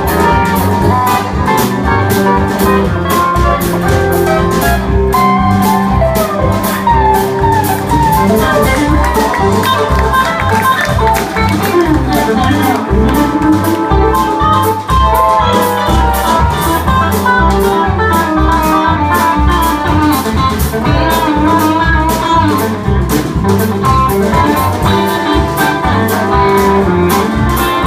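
Live band playing an instrumental break of a country-roots song: a lead electric guitar solo with bent notes over a steady bass and drum beat.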